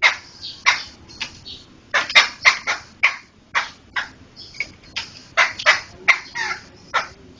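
Poksay (laughingthrush) calling: a rapid run of short, harsh, chattering notes, about two or three a second, some in quick pairs.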